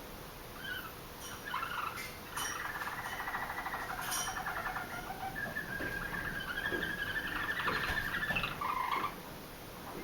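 Roller canary singing low, rapid rolling trills that run on for several seconds and break off suddenly near the end. The song is still halting and not yet smooth, the bird only just starting to sing again after its moult.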